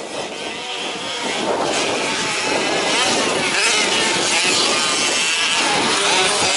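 Several 1/5-scale RC off-road trucks' small petrol two-stroke engines buzzing and revving up and down as they race, growing louder over the first few seconds.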